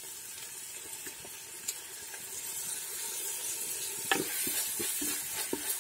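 Onions and freshly added chopped tomato sizzling in hot coconut oil in a clay pot, a steady hiss that slowly grows. From about four seconds in a wooden spoon stirs, knocking and scraping against the clay pot several times.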